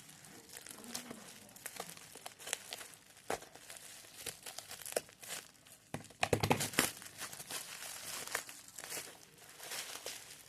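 Crinkling and rustling of handled packaging, with scattered small clicks and knocks, loudest in a dense flurry about six seconds in.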